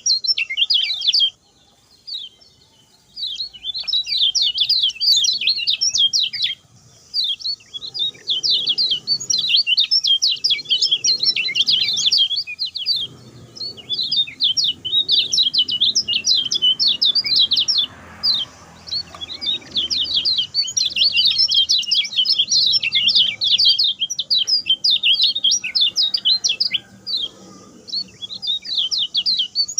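Kecial kuning songbird singing a fast, rapid run of high chirping notes, in long bursts broken by short pauses in the first several seconds.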